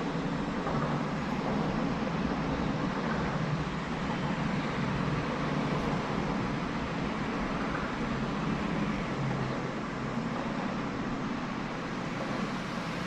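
Steady wind rushing over the microphone, a constant, even rumble and hiss.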